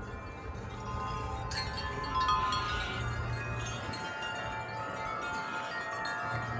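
Metal wind chimes ringing in gusty wind: many tones of different pitches struck and left ringing together, with fresh strikes a little over a second in and again about two seconds in.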